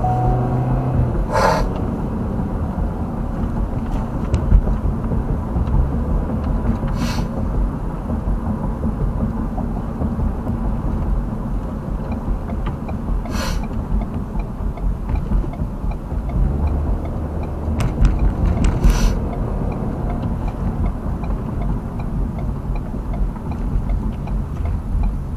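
Steady road and engine noise inside a moving car's cabin, with four brief sharp noises spaced several seconds apart.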